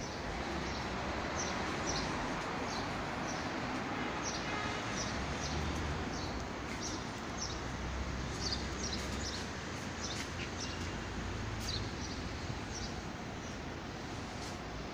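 Small birds chirping in short repeated calls, over a steady low hum of street ambience.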